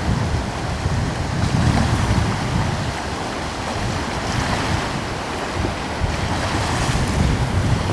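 Gentle sea waves washing in as a steady surf hiss, with coastal wind gusting over the microphone in low swells that rise and fall every second or two.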